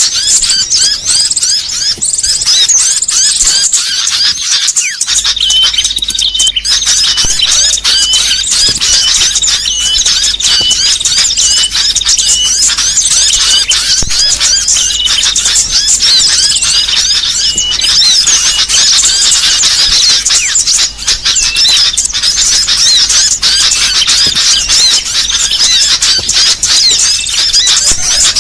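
A dense chorus of many small songbirds chirping and twittering over one another, a noisy, agitated mix of calls used as a bird-lure recording to draw small birds in. From about five seconds in, a sharper chirp repeats roughly twice a second within the chorus.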